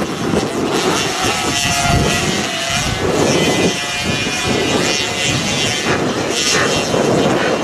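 Motocross bikes racing, their engines revving up and down in pitch.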